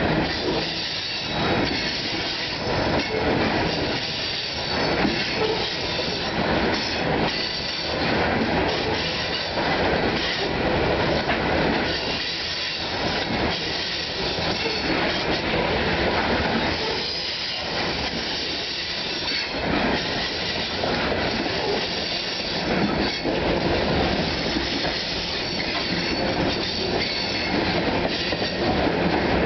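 Coal hopper cars of a freight train rolling past close by: a steady rumble and clatter of steel wheels on the rails, with repeated knocks as the wheel sets pass over rail joints.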